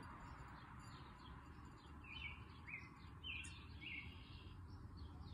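Faint bird chirps: a handful of short, high notes in quick succession about two seconds in, over a low steady background hum.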